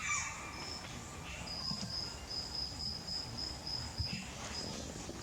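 An insect chirping in a high, even trill of rapid pulses, about five a second, starting about a second and a half in and breaking off briefly near the end.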